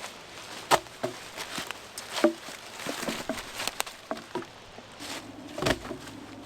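Irregular clicks, knocks and rustles of someone moving about on dry leaf litter and handling gear, with a sharper knock about two-thirds of a second in and a heavier one near the end.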